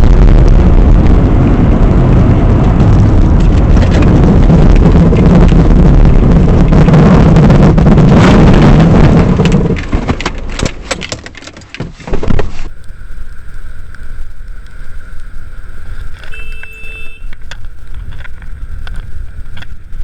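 Loud road and engine noise from a moving car, recorded by a dashcam, followed by a run of sharp knocks about ten seconds in. It then cuts to a quieter passage with a few short beeping tones.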